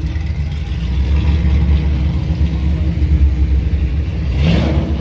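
Car engine running with a deep, steady low rumble, and a short rush of noise about four and a half seconds in.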